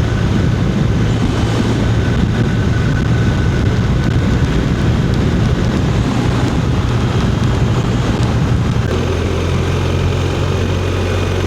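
Motorcycle engine running at a steady cruise under a broad rush of wind and road noise. The engine note drops slightly about nine seconds in.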